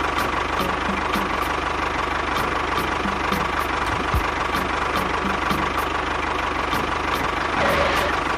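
Small motor of a DIY miniature tractor running steadily with a constant whine and a faint regular ticking.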